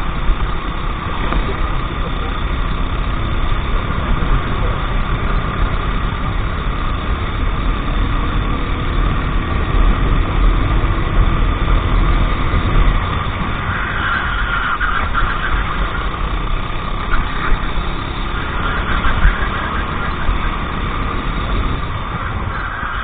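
Racing go-kart engine running continuously while under way, over a steady low rumble.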